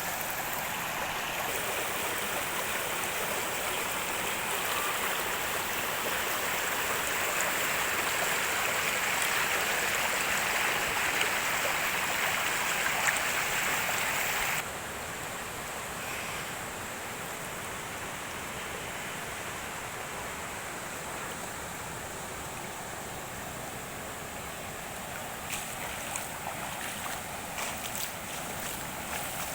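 Steady rain falling, a continuous hiss of water. About halfway through it suddenly becomes quieter and duller, and a few sharp drip-like ticks come near the end.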